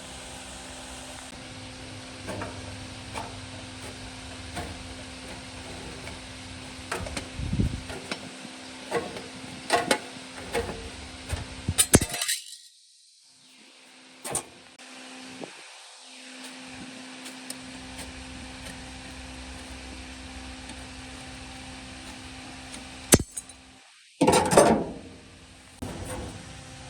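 Scattered metal clinks and knocks of tools and parts being handled, over a steady hum. The sound drops out abruptly about twelve seconds in and again shortly before a few louder knocks near the end.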